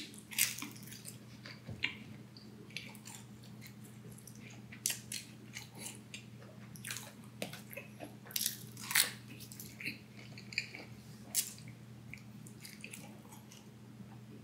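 A person biting and chewing pizza close to the microphone, with irregular soft crunches and mouth clicks. A faint steady low hum runs underneath.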